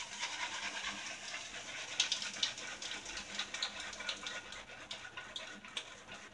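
Damp shaving brush swirled on a puck of shaving soap, a steady wet crackling and squishing as the soap is loaded into the bristles to build a proto-lather.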